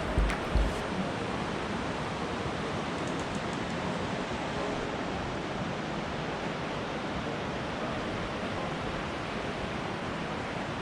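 Steady rushing of a fast mountain river flowing beside the building. A few loud bass beats of music end within the first second.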